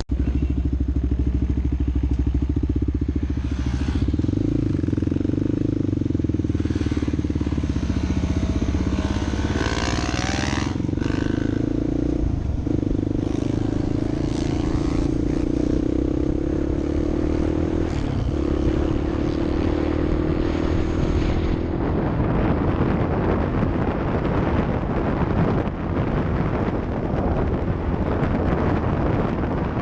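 Off-road vehicle engine running steadily under way. From about two-thirds of the way in, the sound turns rougher and noisier, with rattle and wind.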